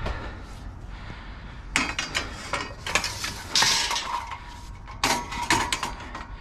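Scrap metal being handled in a dumpster: pieces of pipe and metal clanking and clinking against each other in a series of sharp knocks, the loudest about three and a half seconds in, with a short ringing note from one piece around the middle.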